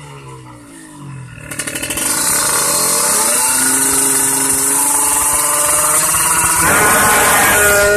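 Kawasaki Ninja 150's two-stroke engine revved up: quieter at first, it picks up sharply about a second and a half in, climbs, and is held at high revs.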